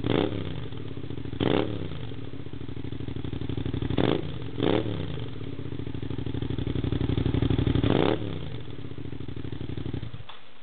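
Suzuki SV650 V-twin idling through an MTC tri-oval exhaust can with its baffle in, blipped sharply four times, then revved up slowly and let fall back to idle. The engine is switched off near the end.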